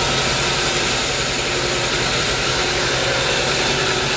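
Sawmill machinery running steadily, a constant low hum under a broad even hiss.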